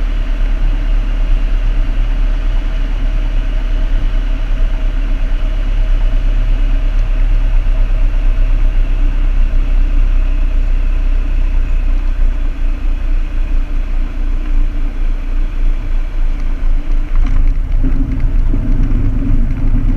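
Piper Cherokee's single piston engine and propeller running steadily in cruise, heard from inside the cockpit as a loud, even drone with a low hum.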